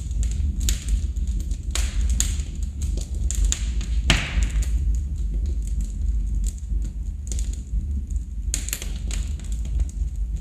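Wood fire crackling in a fireplace: an irregular run of small pops and snaps, with a few louder cracks, the sharpest near the middle, over a steady low rumble.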